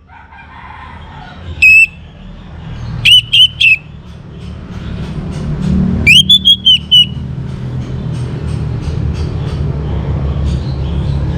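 Young orange-headed thrush giving loud, clipped whistled notes in short bursts: a single note near 2 s, three quick notes around 3 s, and a run of about five about 6 s in. A steady low rumble runs underneath, growing louder from about 4 s on.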